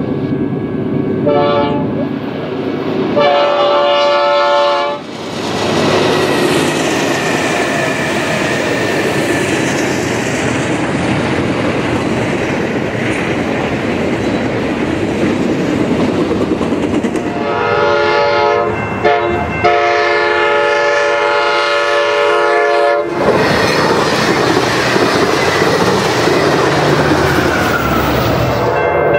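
Diesel freight train at a grade crossing: the locomotive's multi-tone air horn sounds in short blasts and then one long blast in the first five seconds. Then comes the steady noise of the double-stack container cars rolling past, with another long horn blast of about five seconds beginning about 18 seconds in.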